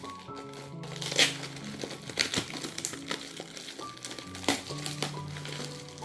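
Gift wrapping crinkling and crackling in irregular bursts as a present is unwrapped by hand, over soft background music.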